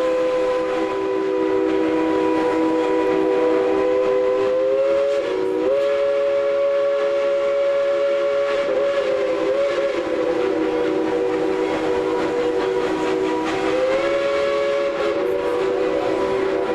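Steam locomotive No. 190's chime whistle blowing one long, sustained chord, its pitch wavering and dipping a few times as it is held.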